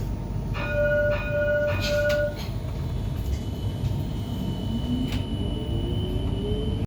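Metro Express light-rail train running with a steady rumble. Early on, three evenly spaced electronic beeps sound, then the electric traction motor's whine rises steadily in pitch as the train picks up speed.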